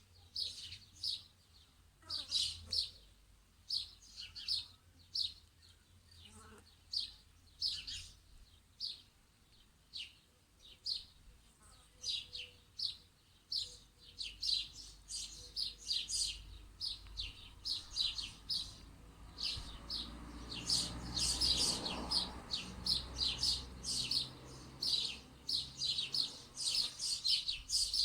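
Small songbirds chirping in quick, short high notes, over and over, getting busier in the second half. Past the middle a low rumble swells up and fades away again.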